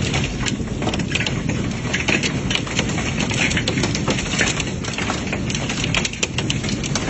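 Heavy storm rain with wind, many sharp drops striking close by over a low steady rumble.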